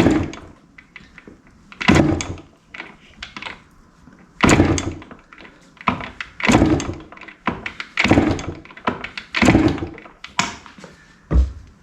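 A 1974 Yamaha DT100's two-stroke single kicked over about seven times, a second or two apart, for a compression test, each stroke turning the engine over without firing, with a dull thump near the end. The gauge reads about 110–115, which the owner takes as decent compression.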